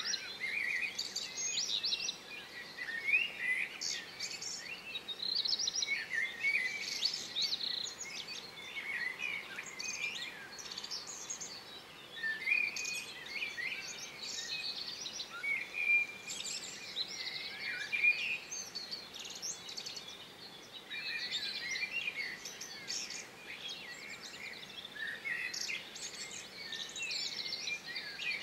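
Small songbirds chirping and singing in a continual run of short calls and trills, over a faint steady background noise.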